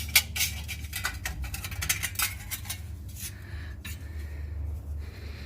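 Light metal clinking and scraping as an old exhaust gasket is worked off and handled. It is a quick run of clicks that thins out after about three seconds.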